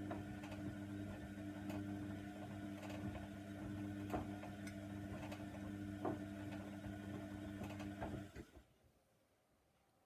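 Hoover Nextra washer dryer running mid-wash: a steady motor hum with the drum turning and a click about every second. The sound cuts off suddenly about eight and a half seconds in.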